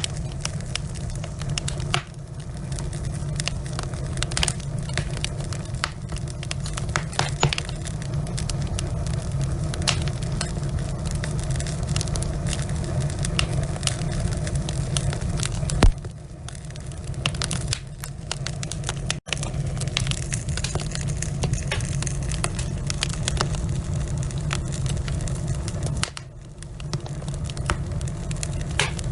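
Wood fire burning in a fireplace: logs crackling with many irregular sharp pops over a steady low rumble of the flames. One louder pop comes about sixteen seconds in, and the sound cuts out for an instant a little past halfway.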